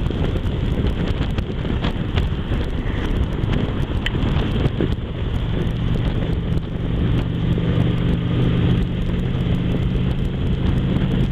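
Motorcycle engine running at a steady cruise under heavy wind noise on the microphone; a steady low engine hum comes through more clearly about halfway through.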